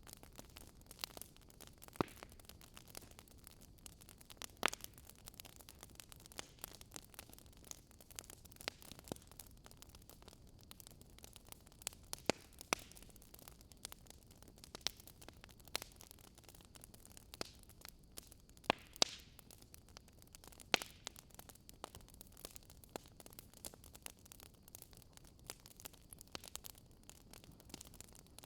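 Wood fire crackling in a fireplace: irregular sharp pops and snaps over a soft steady hiss, with a handful of louder pops scattered through.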